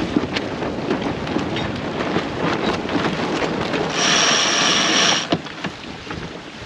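Wind buffeting the microphone and water rushing along a sailboat's hull while under sail, with scattered small knocks; about four seconds in, a louder burst of hiss lasts just over a second.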